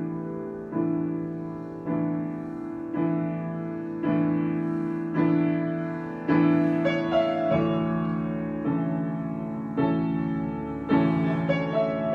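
Solo piano improvisation: slow, sustained chords struck about once a second, each left to ring and fade before the next.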